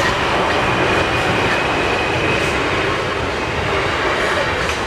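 Passenger train rolling past close by over a level crossing: a steady rumble of wheels on rail.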